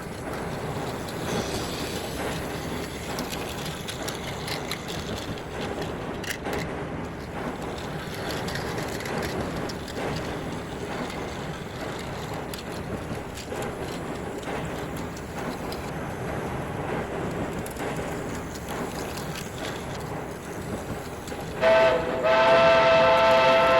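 Steady running noise of a train with small rattling ticks. About 22 s in, a loud chord-like steam whistle starts and holds.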